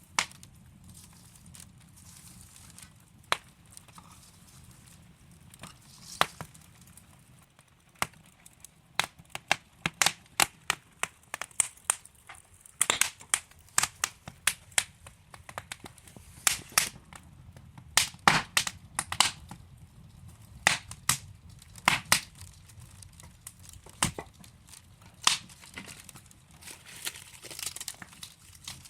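Wood fire burning in a fireplace: logs crackling with irregular sharp pops, coming thicker after the first several seconds, over a faint low rumble of the flames.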